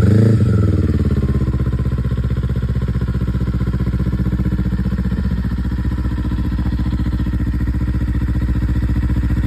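Kawasaki Eliminator 400's parallel-twin engine: a short blip of the throttle that falls back within about a second, then a steady idle.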